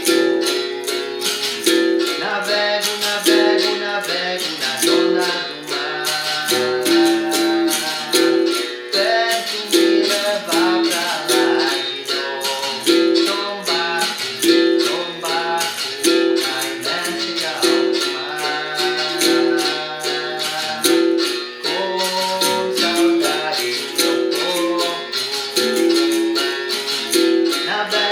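Capoeira bateria music: a berimbau plays a repeating twanging rhythm, with a caxixi rattle shaking steadily and a voice singing a capoeira song over it.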